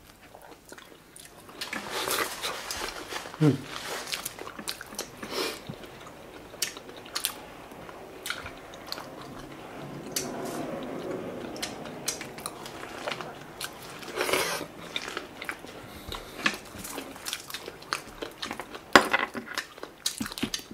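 Close-miked eating of a seafood boil: chewing and biting of shellfish and other seafood, with many short sharp clicks and cracks and wet smacking.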